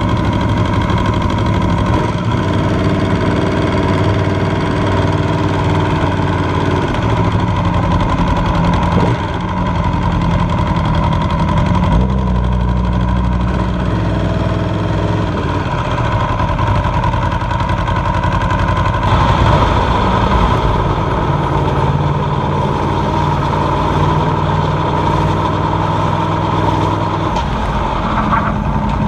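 Aprilia Tuono V4R's V4 engine running, heard from on the bike while it is ridden at low speed. The engine note shifts in pitch a few times.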